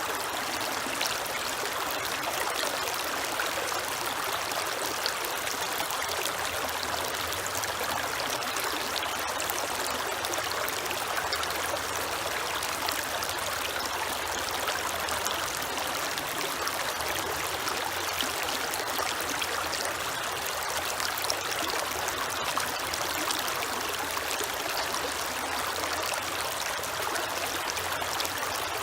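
Creek water running steadily over rocks: a continuous rushing and trickling babble.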